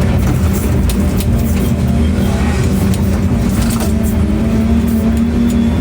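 Excavator engine running steadily, with occasional short metallic knocks.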